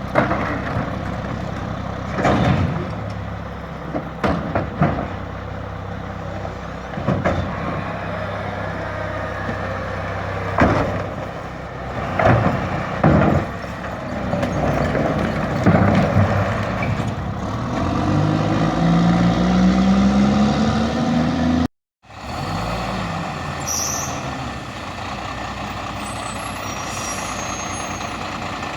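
Garbage truck collecting trash: repeated bangs and knocks as refuse is loaded. Then the engine revs up with a rising pitch as the packer runs. After an abrupt break about three-quarters through, a truck engine idles steadily.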